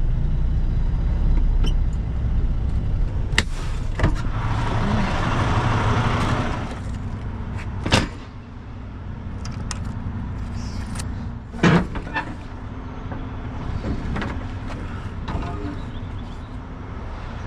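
International LT semi truck's diesel engine running as the truck creeps forward to slide the trailer's tandem axles. A hiss of air runs from about three to seven seconds in, and several metal clunks from the tandem slide are heard, the loudest about eight and twelve seconds in.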